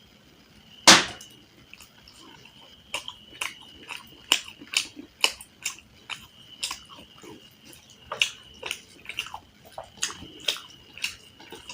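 Close-miked eating: irregular wet mouth clicks and chewing of curry and rice. A single sharp, loud crunch or tap comes about a second in. A faint steady high whine runs underneath.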